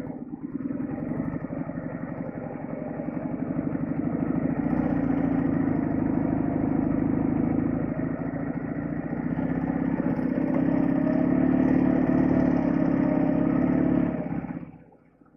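Flat-twin motorcycle engine running under way, with a steady rapid firing beat that swells slightly in level twice, then cuts off abruptly near the end.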